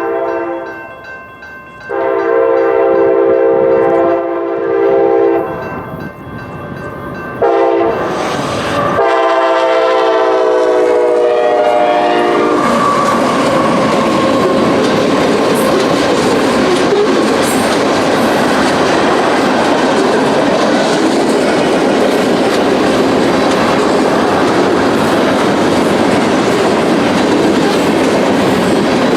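A Union Pacific freight locomotive's multi-chime air horn sounds several long blasts. The last blast drops in pitch as the locomotive passes. The train then rolls by with a steady loud rumble of wheels on the rails.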